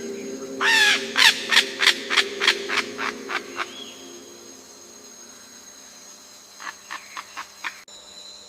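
A superb bird of paradise calling: a run of about ten notes that come faster and fainter, then a second, quieter run of about five notes a few seconds later.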